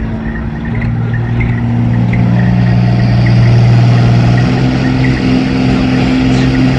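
Ford 6.0 Powerstroke V8 turbo-diesel pickup engine working hard under heavy load, pulling a sled in a truck pull. The engine gets louder over the first few seconds, and its pitch steps up about four and a half seconds in.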